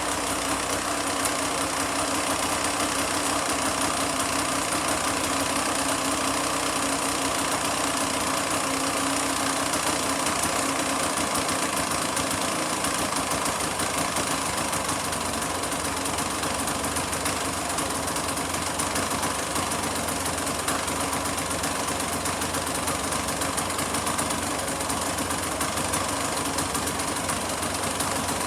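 Yamaha MTX200R's two-stroke single-cylinder engine idling steadily.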